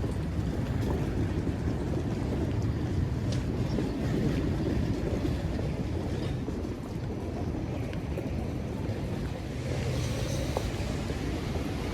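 Steady low rumbling background noise with no clear events: a continuous wash of ambient noise.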